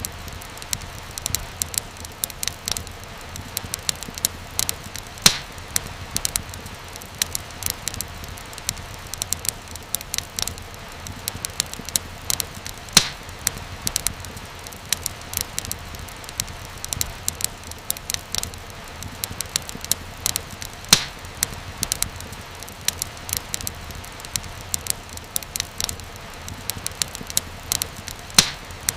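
Wood fire crackling steadily over a low rumble of flame, with irregular sharp pops and snaps, a few louder ones standing out.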